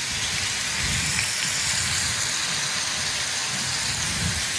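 Sliced tomatoes sizzling as they fry in hot oil in a pan: a steady hiss.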